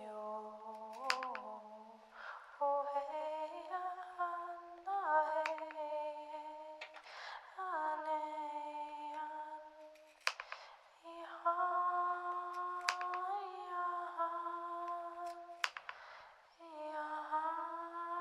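A human voice humming long held notes one after another, each lasting a few seconds and bending slightly in pitch, with short pauses between them and a few sharp clicks.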